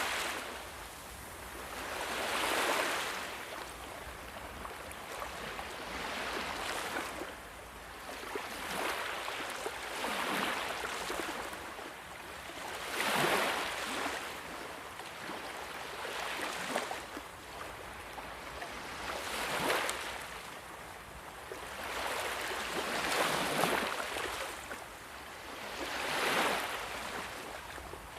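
Sea waves washing in one after another, each a rushing surge that swells and fades every two to four seconds.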